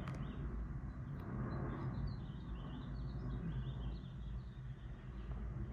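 Small birds chirping repeatedly in short, high calls over a steady low hum.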